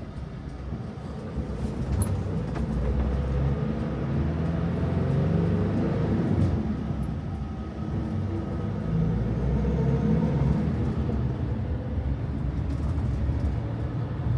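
Motor vehicle driving: engine running with a steady low rumble, its pitch shifting up and down as it goes.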